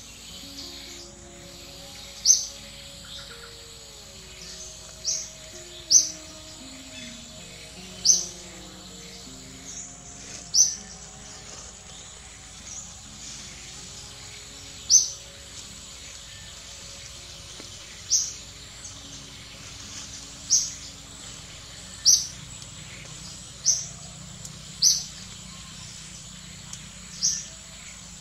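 A bird calling: a short, high-pitched chirp repeated about a dozen times, one every one to three seconds.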